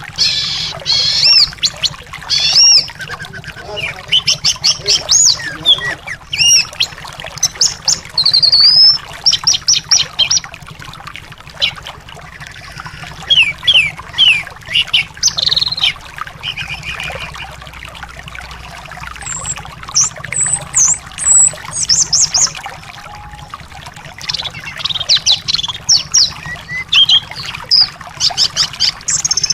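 Anis thrush singing loud, varied phrases of whistled sweeps and rapid trills in bursts with short pauses, over a steady trickling-water background: a bird-song track of the kind played to a caged anis that has stopped singing, to set it singing.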